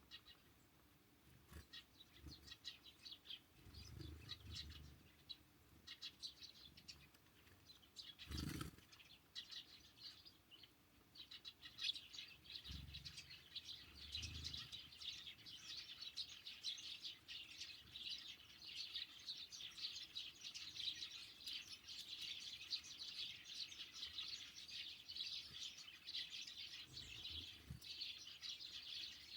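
Small songbirds chirping, sparse at first, then a steady busy chatter of many birds from about 11 seconds in. A sharp knock about eight seconds in and a few soft low thumps.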